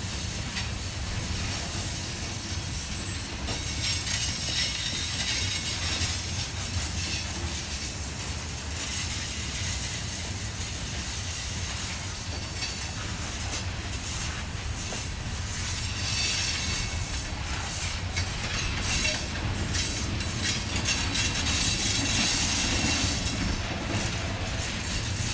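Covered hopper cars of a freight train rolling past: a steady low rumble of steel wheels on rail with a high hiss and scattered clicks as the wheels cross the rail joints.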